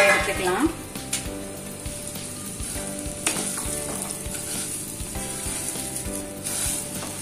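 Ragi vermicelli roasting in hot ghee in a nonstick pan, sizzling steadily, with the rustle and scrape of a wooden spatula stirring the strands.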